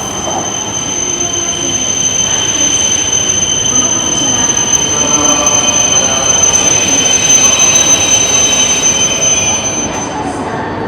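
Shinkansen high-speed train moving along the platform, with a high steady whine over rumbling wheel and motor noise that grows louder to a peak about seven or eight seconds in, then eases off.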